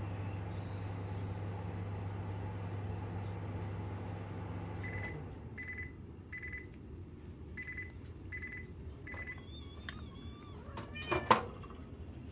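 Microwave oven running with a steady hum, which stops about five seconds in as the timer ends; then six end-of-cycle beeps in two sets of three. Near the end come a brief squeak and a sharp clunk.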